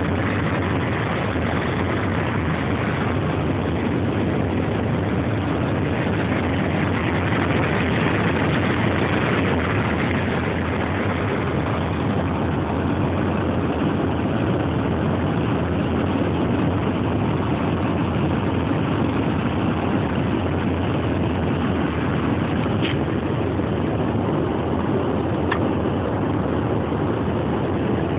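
Steady rushing noise of jet engines and airflow heard inside an airliner cabin in flight. Two faint brief clicks sound near the end.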